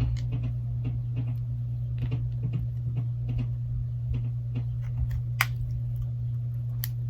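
Light, irregular clicks and taps of small phone parts and tools being handled and pressed into place on a Galaxy Note 8 replacement screen assembly, over a steady low hum. One sharper click comes about five and a half seconds in.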